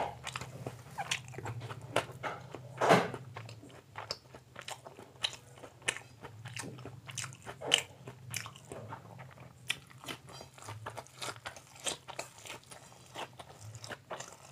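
Close-up chewing of egg omelette, with many short, irregular wet mouth clicks and smacks; the loudest bite comes about three seconds in. A steady low hum runs underneath.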